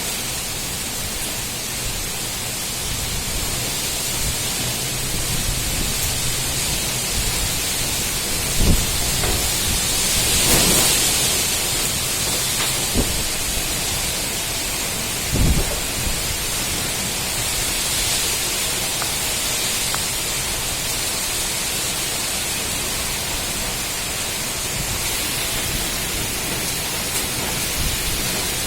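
Strong wind blowing steadily as an even rushing noise, swelling briefly about ten seconds in, with a few short low thumps of gusts hitting the microphone.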